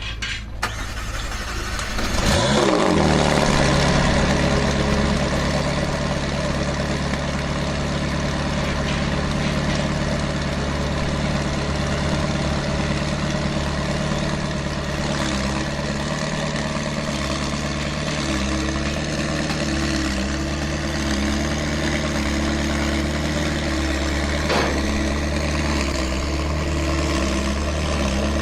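McLaren 720S twin-turbo V8 starting about two seconds in, flaring briefly and dropping in pitch, then idling steadily.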